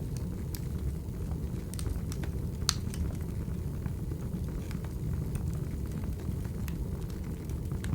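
Recorded wood fire burning: a steady low rumble of flames with scattered sharp crackles and pops, the loudest pop about a third of the way in.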